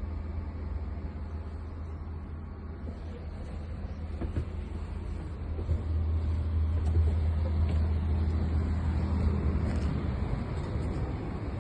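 Diesel engine of a Scania K320 coach running with a steady low hum, growing louder about six seconds in.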